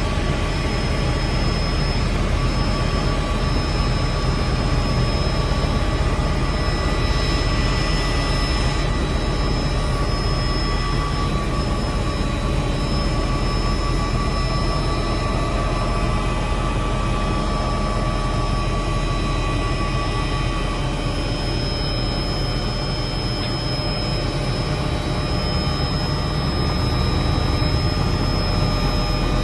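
Helicopter in flight: a steady high turbine whine over a constant low drone from the rotor.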